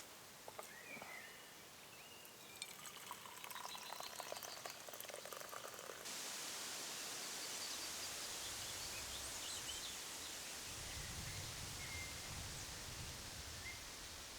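Liquid being poured, with small clicks along the way, during the first six seconds. Then an abrupt change to steady outdoor ambience with a few faint bird chirps and a low rumble.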